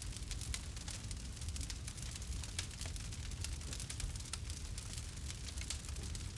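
Campfire crackling: many small, irregular pops and snaps over a steady hiss and low rumble of burning wood.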